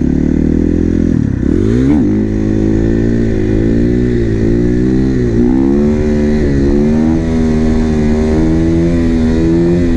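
450 supermoto's single-cylinder four-stroke engine under way. The engine note drops about a second in, rises again near two seconds, then holds a steady cruising pitch that wavers slightly with the throttle.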